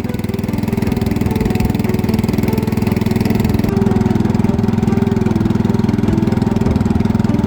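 Small engine running steadily at a constant speed, with a fast, even pulsing beat.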